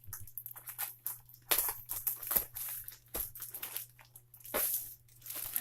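A package being opened by hand: irregular bouts of crinkling, scraping and tearing of packaging, with short pauses between them.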